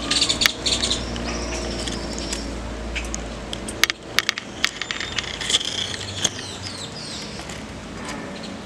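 Small songbirds calling in a tree: quick high chirps and short downward-sliding notes, with a few sharp clicks and a low rumble that stops about four seconds in.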